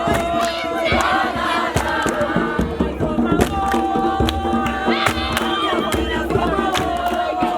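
A group of voices singing a chant together in long held notes, over many sharp percussive strikes.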